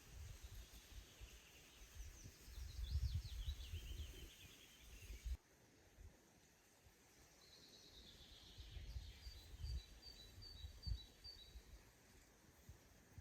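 Faint songbirds singing outdoors: a quick falling, warbling phrase a couple of seconds in, then a run of short repeated high notes near the end. A low, uneven rumble comes and goes underneath, and the background drops off suddenly about five seconds in.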